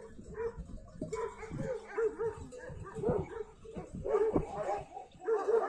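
A dog whimpering and yipping in short, repeated calls.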